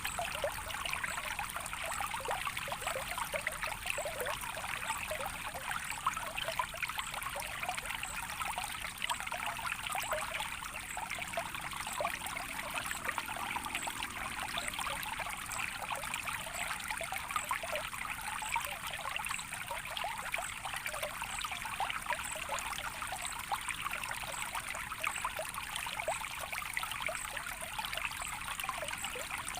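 A small stream of water trickling steadily, an even rushing with many small splashes and no pauses.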